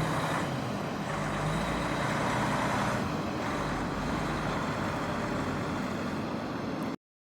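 2012 Freightliner M2 112V truck's diesel engine running steadily; the sound cuts off suddenly near the end.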